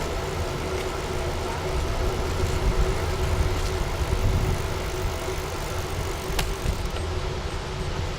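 Wind rumbling on the microphone during a bicycle ride, with a steady faint hum above it.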